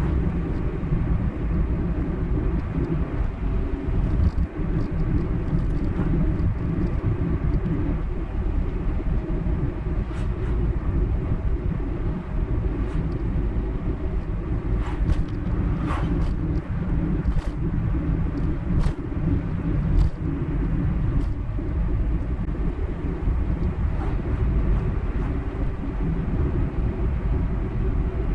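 Car driving at road speed: a steady low rumble of tyres and engine, with scattered light clicks and ticks.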